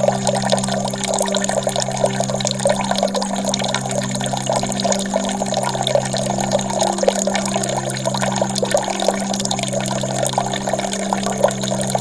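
Running water splashing and trickling steadily, over a steady low drone that dips briefly about every two seconds.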